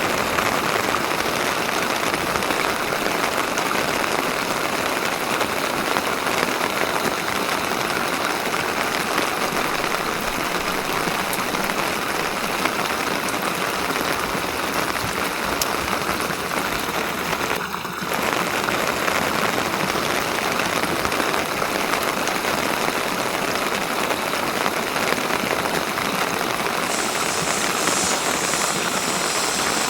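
Steady rain falling, an even hiss with no let-up; it briefly drops out just past the middle.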